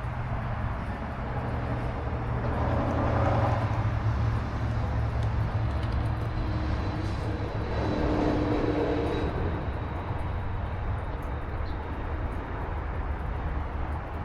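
Harley-Davidson Road Glide's V-twin engine running under way, with road and wind noise. The sound swells louder twice, about three seconds in and again around eight to nine seconds in.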